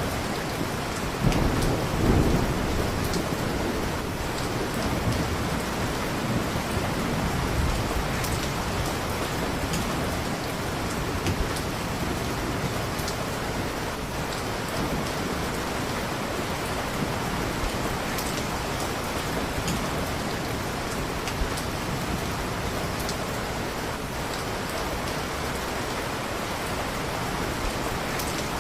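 Steady heavy rain, with a low roll of thunder about a second or two in that fades away, and a few scattered sharp pops.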